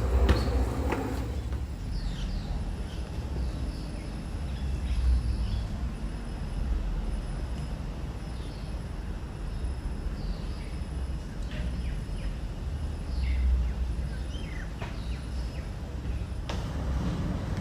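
Birds chirping now and then in short, high calls over a steady low rumble.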